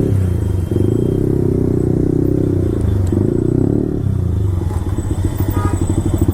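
Yamaha R15 V4's 155 cc single-cylinder engine running through a full-system Akrapovic exhaust while riding. The note breaks briefly about a second, three and four seconds in, then drops to a slower pulsing exhaust beat near the end.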